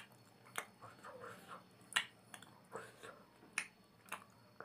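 Close-miked eating of instant noodles and meat by hand: several sharp, wet mouth smacks and clicks at irregular intervals, with soft chewing between them.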